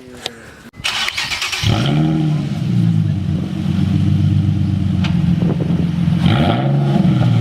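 An engine starts up about two seconds in and runs steadily, with two brief swells in pitch.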